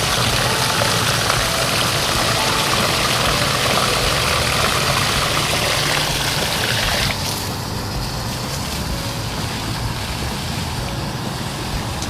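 A steady rushing hiss over a low, even hum; the hiss cuts off suddenly about seven seconds in, leaving the hum.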